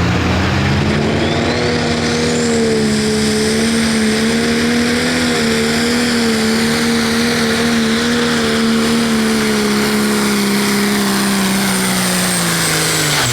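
John Deere 6030 pro stock pulling tractor's turbocharged diesel engine at full throttle during a pull. It climbs from idle to high revs about a second in, with a rising turbo whistle, holds high revs steadily, then drops off right at the end.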